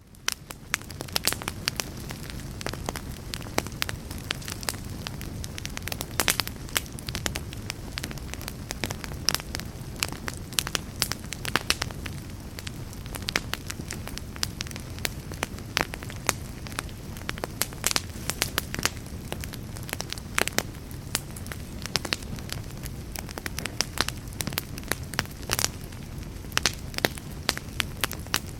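Log fire burning in a fireplace: a steady low rush of flames under frequent, irregular sharp crackles and pops from the burning wood. The sound swells in over the first second.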